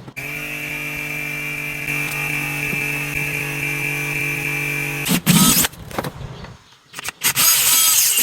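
A power tool's motor runs at a steady pitch for about five seconds, then stops abruptly. A short loud rushing noise follows, and a second, longer loud noise comes near the end.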